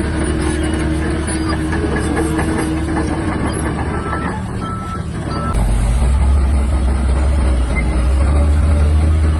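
Shantui DH17-C3 bulldozer's diesel engine running steadily, with three short beeps near the middle; about halfway through, the engine's deep hum grows louder and stays up.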